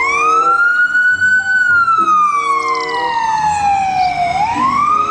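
Ambulance siren in wail mode: the pitch rises to a peak about a second and a half in, falls slowly, then climbs again near the end.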